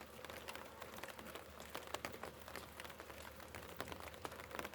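Wood fire crackling: faint, irregular snaps and pops from burning firewood.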